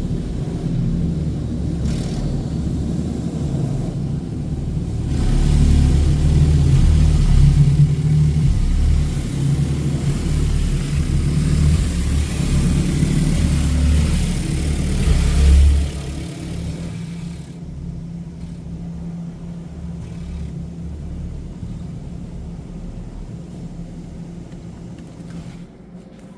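Istobal M'NEX 22 automatic car wash running: a steady low rumble, with a louder rushing stretch from about five seconds in that drops off suddenly at around sixteen seconds, after which the sound slowly fades.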